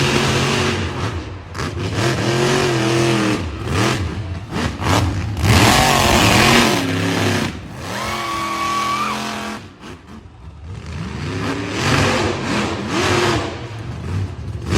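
Monster truck engines revving hard, the pitch rising and falling again and again, with loud surges of throttle.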